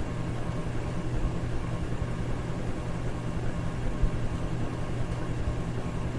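Electric fan running steadily: a constant rush of air over a low motor hum, with one brief low bump about four seconds in.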